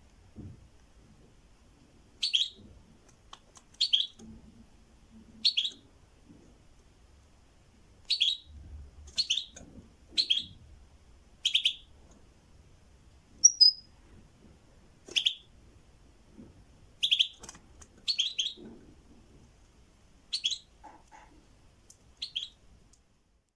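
A songbird giving short, sharp chirps at irregular intervals of about one to two seconds, each a brief downward-sliding note, with one thinner, higher note about halfway through.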